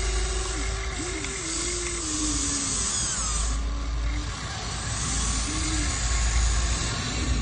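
Small electric motors of radio-controlled construction models whining, the pitch repeatedly rising and falling as they start, stop and take load.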